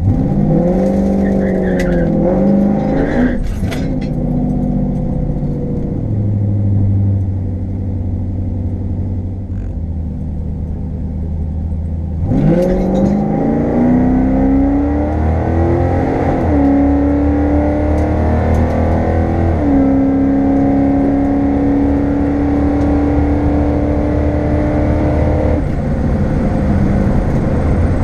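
A 1972 Chevrolet Chevelle's engine, heard from inside the cabin. It is revved up and down a few times, then runs steadily at low revs. About twelve seconds in it goes to full throttle for a drag-strip launch: the revs climb, drop back twice as it shifts up, and keep rising until the throttle is lifted near the end.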